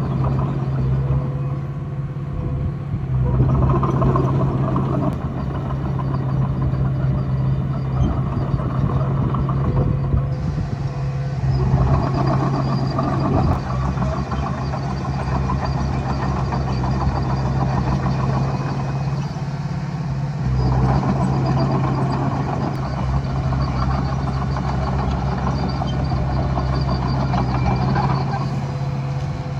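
Komatsu D20A bulldozer's diesel engine running with a steady drone, working harder four times, about every eight seconds, as the machine pushes soil.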